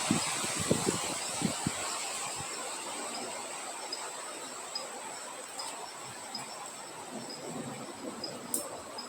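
Wind gusts rumbling low for the first couple of seconds, then dying away. Under them, a steady high-pitched insect drone with faint, regularly repeating chirps.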